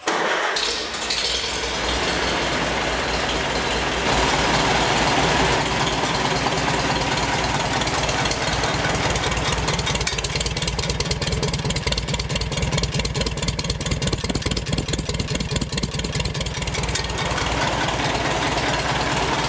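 1952 Farmall Super C's four-cylinder gasoline engine starting up and settling into a steady run, a little louder from about four seconds in.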